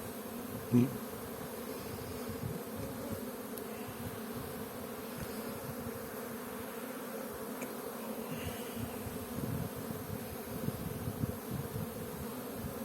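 Honeybees buzzing around an open hive: a steady, even hum of many bees. There is one brief thump about a second in.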